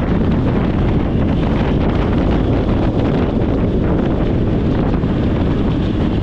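Steady wind rushing over the microphone of a moving motorcycle, with a low, even drone of engine and road noise underneath.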